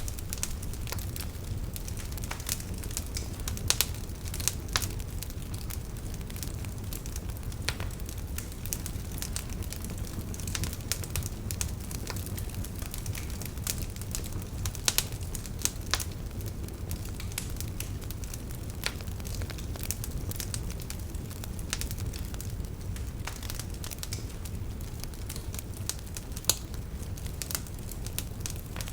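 Campfire crackling with irregular sharp pops, a few louder snaps among them, over a steady low rush from a river.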